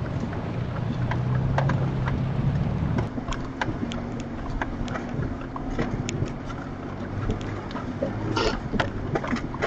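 4x4 vehicle driving a rough off-road trail: a steady engine drone with scattered rattles and knocks as it jolts over bumps. The engine note changes abruptly about three seconds in.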